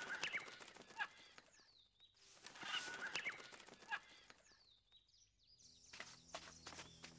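Faint bird cries: one falling call about a second and a half in and another about four and a half seconds in, over a faint crackling background. Near the end, a run of footsteps on gravel begins.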